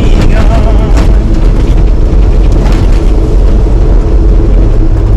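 Vehicle driving on the road, a loud, steady low rumble of engine and road noise. A brief wavering tone sounds just after the start.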